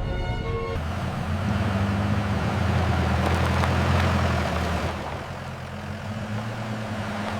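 Motorhome engine hum and road rush as it drives, the rush swelling about three to four seconds in and then easing off.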